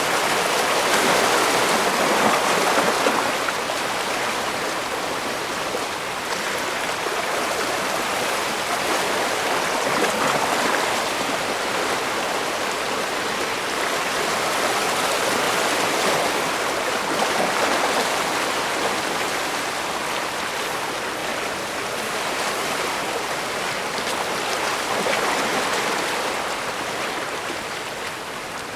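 Bay water washing against the shore: a steady rush of water that swells and eases about every seven or eight seconds as waves come in.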